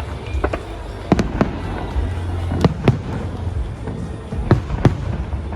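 Aerial fireworks shells bursting: sharp bangs, mostly in quick pairs, about seven in all, with a steady low rumble beneath.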